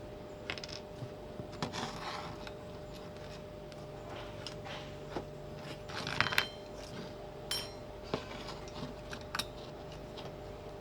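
Small metal parts clinking, clicking and knocking as they are handled and fitted together, with a louder cluster of knocks about six seconds in, over a faint steady hum.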